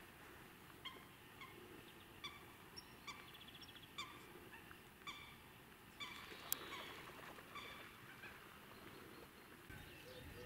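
Faint short bird calls repeating every second or so, with a quick rapid trill about three seconds in and a single sharp click later on.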